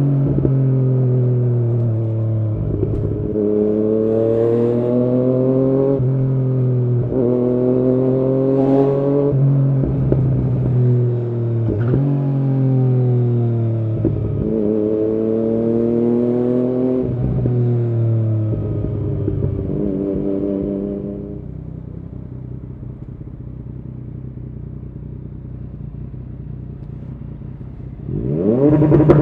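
A 2016 Yamaha MT-09's inline three-cylinder engine through an aftermarket Arrow exhaust, revving in repeated rising surges that each end in a sudden drop every two to three seconds. About twenty seconds in it settles to a quieter steady run, then a loud rev climbs again near the end.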